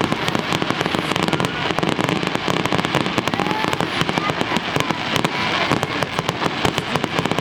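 Aerial fireworks display: a dense, continuous run of sharp crackling cracks and pops, many per second, without a break.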